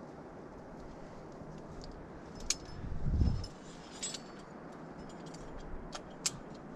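Metal climbing gear clinking: a few separate sharp clicks of carabiners and hardware knocking together, with one dull low thump about three seconds in.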